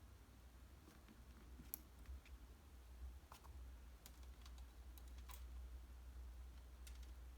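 Faint scattered clicks of clothes pegs and hangers as laundry is hung up, about six over a few seconds, over a low steady hum.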